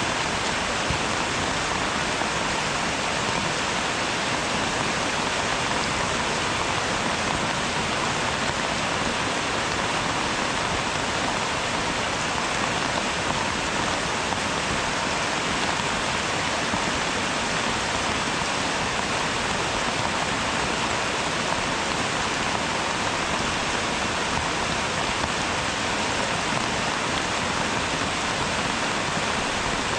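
Rain falling steadily: an even, unbroken hiss with no thunder and no single drops standing out.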